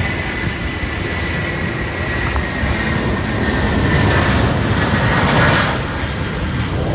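Jet engines of a Korean Air airliner taking off, a loud, steady engine noise with a faint high whine that slowly falls in pitch. The sound swells to its loudest about four to five seconds in, then eases a little.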